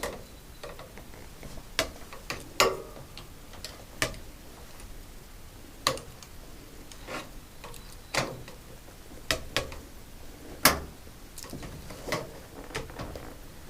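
Irregular sharp clicks and knocks, about a dozen spread out with pauses between them, from hands and tools working on a washing machine's panels and fittings during disassembly.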